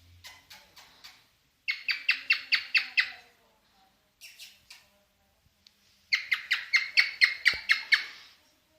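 Male cockatiel singing its courtship song: a few soft notes, then two runs of rapid, evenly repeated loud chirps at about five a second, the second run longer.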